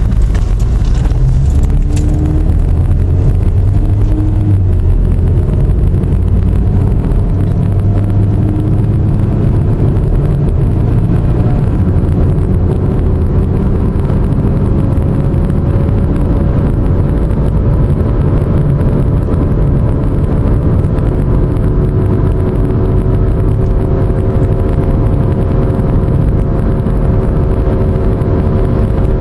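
Pontiac G5 driving with a loud, airplane-like droning hum over low road rumble; the hum's pitch climbs slowly over the first half as speed builds, then holds steady. The owner suspects a bad wheel bearing.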